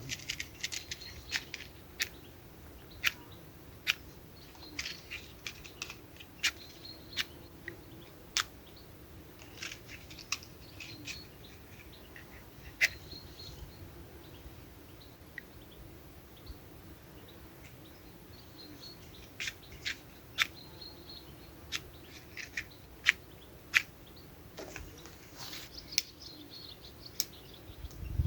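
Small birds chirping in short bursts, with scattered sharp clicks and ticks in between.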